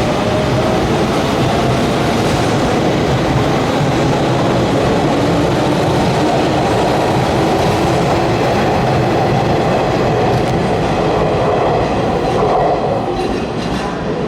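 Electric commuter train moving along the station platform: a loud, steady rumble of wheels on rail with some clickety-clack, easing slightly near the end.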